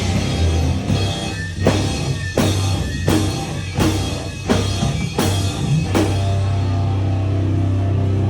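Live powerviolence band playing loud, with heavy distorted guitar and bass and drum hits landing a little under once a second. The hits break off about six seconds in, leaving a steady amplifier hum.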